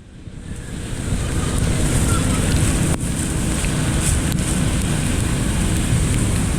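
Water rushing steadily as it drains toward a culvert, a dense low rumble with hiss, fading in over the first second.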